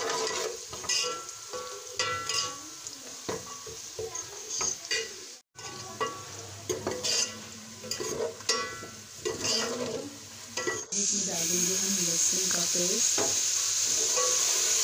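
Steel ladle scraping and knocking against an aluminium pot as sliced onions and ground spices are stirred in hot oil, over a sizzle. About eleven seconds in, a steady, louder frying hiss takes over, with only a few scrapes.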